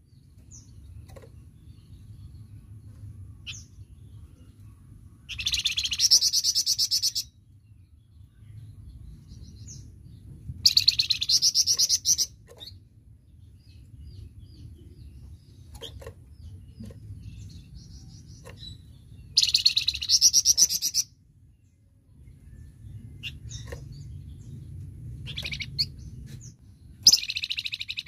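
Flamboyan songbird singing in full voice: four loud bursts of very fast, high repeated notes, the 'tembakan' (shot) trill, each lasting about one and a half to two seconds, with soft single chirps in between.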